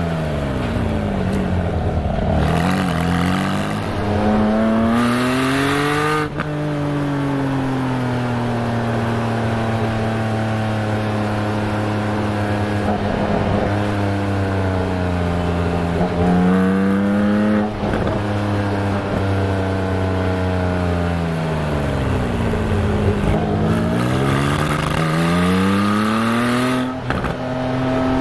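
Porsche 718 Spyder's 4.0-litre flat-six exhaust, picked up at the rear bumper, rising and falling in pitch several times as the car accelerates and eases off, with brief breaks in the note at the gear changes. The low-rpm note sounds blatty because the microphone sits by one outlet, far from the other.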